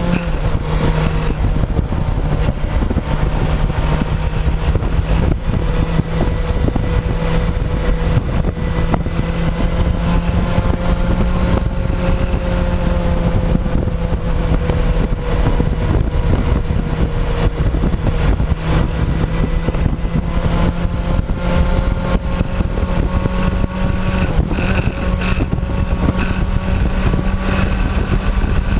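Motorcycle engine running at a steady cruising speed, its pitch drifting gently up and down, with heavy wind and road rumble on a tank-mounted camera.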